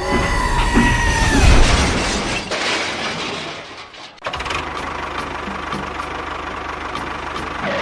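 A machine motor running: a loud noisy start with a rumble and a whine that drops away, then about four seconds in it changes suddenly to a steady, even running sound with a constant hum.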